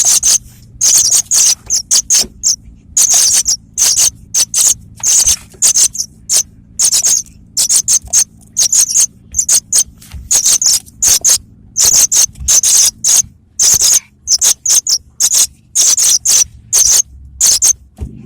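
Juvenile paddyfield pipit (apung tanah) calling: a rapid run of short, high chirps in irregular clusters of several at a time, with brief pauses between clusters. A faint steady low hum lies underneath.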